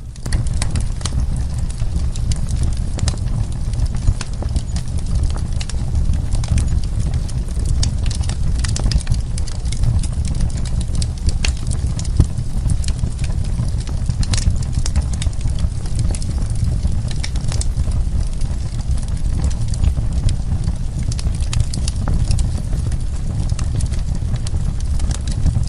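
Wood fire burning in a fireplace: frequent, irregular crackles and sharp pops of burning wood over a steady low rumble of the flames.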